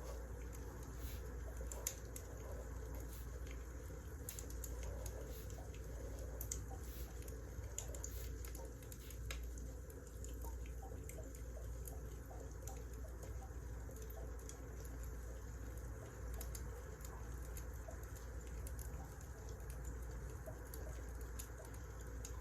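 Wood fire crackling: irregular small pops and snaps over a steady low rumble of the burning logs.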